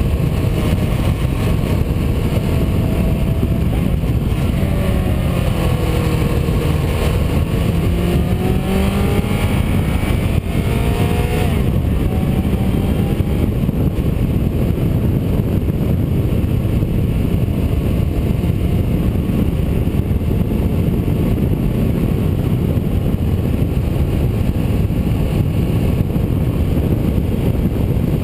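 Onboard sound of a motor vehicle driving, with a steady low rumble of road and wind noise. Over the first dozen seconds the engine note falls and rises in pitch a few times, then sinks back into the rumble.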